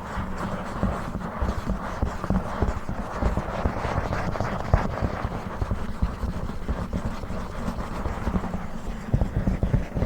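ASMR tapping and scratching on a book: fast, dense fingertip taps and rubs with no pause.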